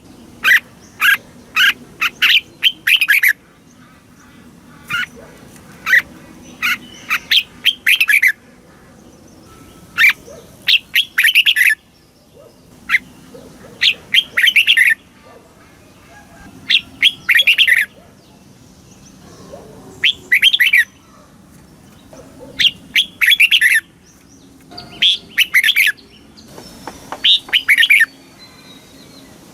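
Red-whiskered bulbul singing: short phrases of quick, chirpy notes, each about a second long, repeated every couple of seconds with brief pauses between.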